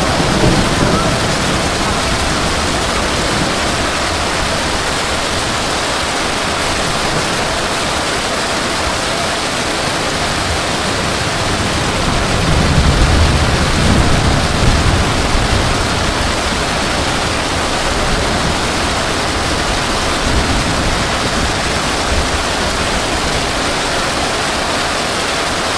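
Heavy rain pouring onto a flooded street, a dense steady hiss. A low rumble swells for a few seconds about halfway through.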